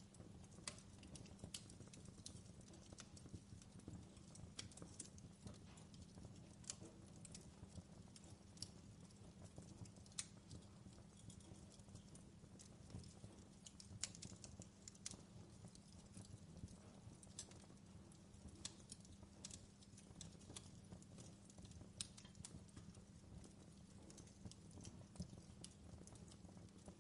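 Faint fireplace fire crackling: irregular sharp pops and snaps over a steady low rumble.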